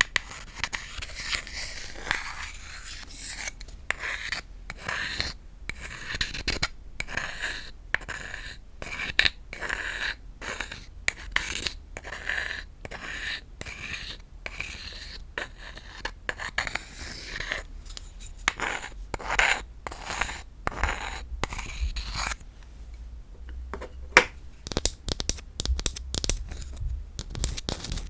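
Tapping and scratching on wooden objects: an irregular run of raspy scraping strokes mixed with taps, easing off briefly, then quick rapid taps near the end.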